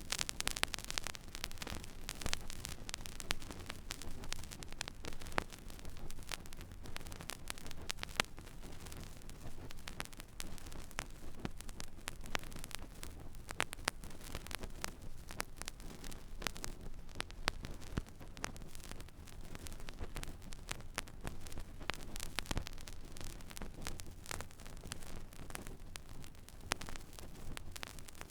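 Stylus running in an empty vinyl record groove: steady surface noise with irregular crackles and pops, over a low hum.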